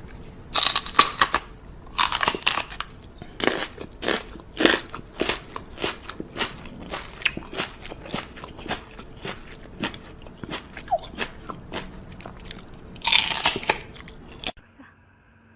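Close, irregular crunching and chewing of something crisp, as when an animal eats crunchy food, with a few longer, louder crunches; it cuts off suddenly about a second before the end.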